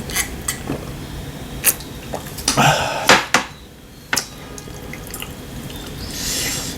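Eating at the table: spoons and chopsticks click against bowls and plates several times, with wet mouth sounds of eating in between.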